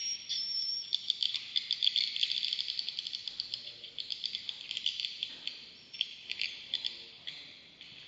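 Swiftlets calling in a swiftlet bird house: rapid trains of short, high chirps and clicks, dense from about a second in and thinning out near the end.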